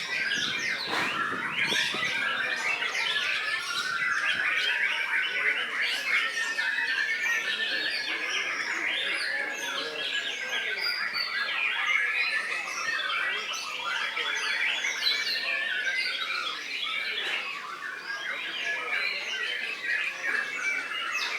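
Many songbirds singing at once: a dense, unbroken chorus of overlapping whistles, chirps and trills.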